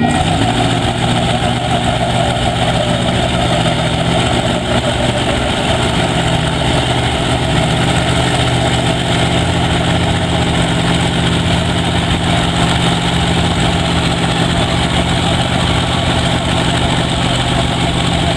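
Mega truck's engine running at a steady, unchanging pitch.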